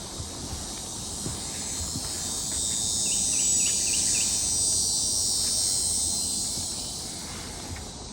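Swamp insect chorus: a dense, high-pitched buzzing that swells louder through the middle and fades again toward the end. A quick run of five short chirps sounds about three seconds in.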